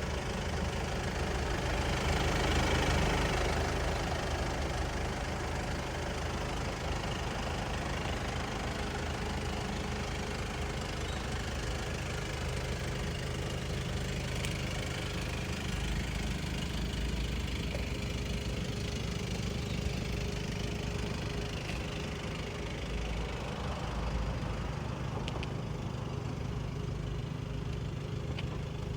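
Volkswagen Golf VII GTD's 2.0 TDI four-cylinder diesel engine idling steadily, slightly louder about two to three seconds in.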